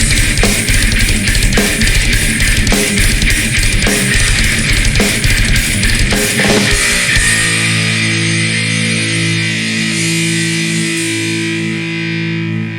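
Heavy, distorted electric guitar music with regular drum-like hits, which stops about seven seconds in and gives way to a held chord ringing on and slowly fading.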